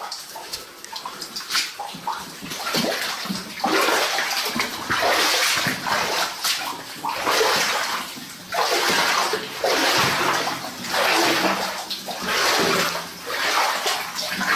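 Rubber boots wading through shallow water on a mine tunnel floor, a splash and slosh with each step about once a second. The steps start a couple of seconds in.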